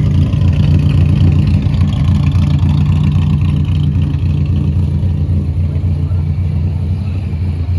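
A car engine running loudly at a steady speed, with a low, even exhaust note that comes up sharply at the start.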